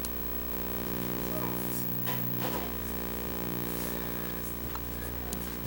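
Steady electrical hum with a low buzz, with a few faint clicks and brief rustles.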